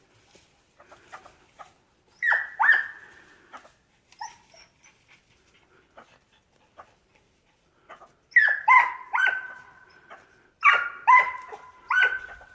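A dog yelping in high, whining barks, each starting sharply and holding its pitch briefly: a couple about two seconds in, then a quick run of yelps over the last four seconds.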